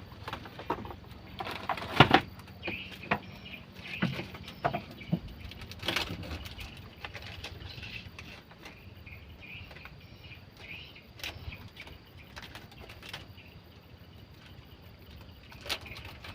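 Scattered knocks and clicks, the loudest about two seconds in and fewer after the middle, over faint bird chirping.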